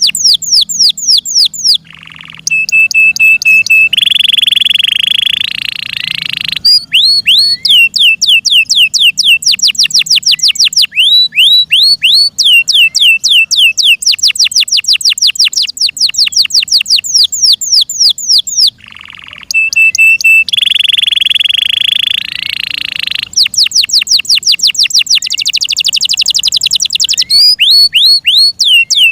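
An F1 Yorkshire-cross canary singing a full song. Fast trills of rapidly repeated falling notes are broken by a held steady whistle and then a longer rolling note. The whole phrase sequence starts again about two-thirds of the way through.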